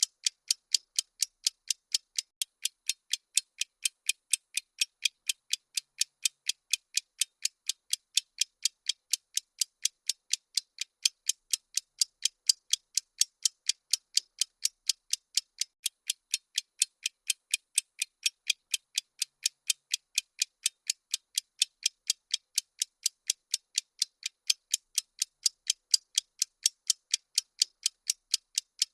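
Bomb-timer ticking sound effect: thin, sharp ticks in an even, fast rhythm of several a second, with no low end.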